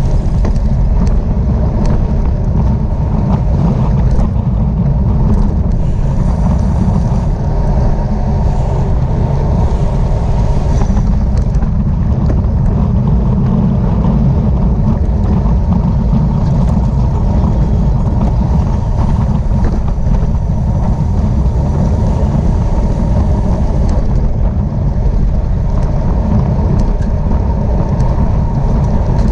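Steady wind rush and road rumble on a camera riding with a road bicycle at race speed.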